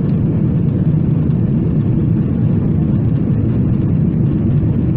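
Steady low cabin roar of a Boeing 777-300ER in flight, engine and airflow noise heard from inside the passenger cabin.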